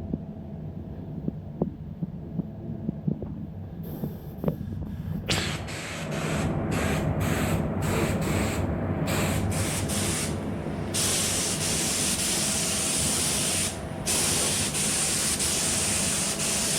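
Spray gun hissing as it lays on a heavier coat of red basecoat: first a few short bursts, then long continuous passes with one brief pause. A low hum runs underneath, with a few small clicks before the spraying starts.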